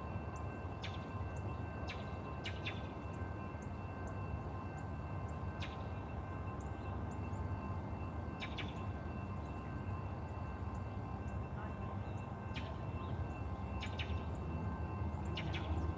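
Outdoor ambience of a steady low rumble, with short bird chirps every few seconds and a faint steady high tone.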